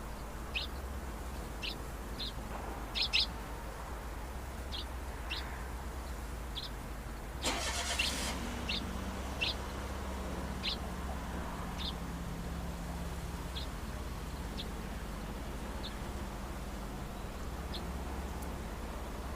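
Small birds giving short, sharp chirps, scattered singly about a second or two apart, over a steady low rumble. About seven and a half seconds in there is a brief loud rush of noise, followed by a low hum that slowly falls away.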